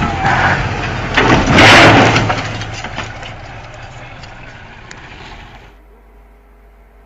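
Vehicle engine running under loud road noise, with a sudden loud burst of noise about a second and a half in that fades away over the next few seconds.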